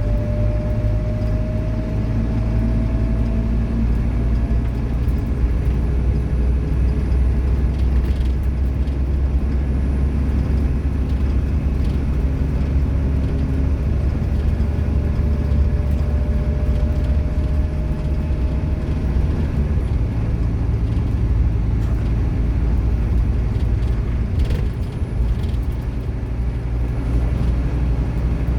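Scania K230UB Omnilink single-decker bus's nine-litre five-cylinder diesel engine and drivetrain running under way, with a whine that rises slowly in pitch over the first few seconds and again for several seconds in the middle as the bus accelerates.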